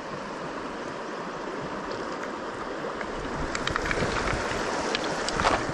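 Small creek water running steadily, with a few short, sharp sounds in the last two seconds.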